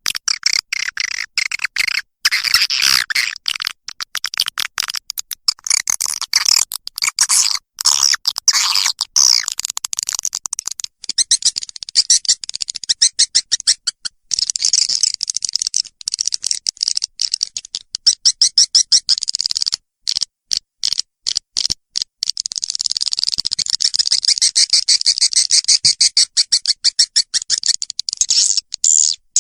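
Recorded edible-nest swiftlet calls: dense, rapid twittering chirps in fast clicking pulses, in stretches broken by short gaps. It is a lure call, played to draw swiftlets into a nesting house.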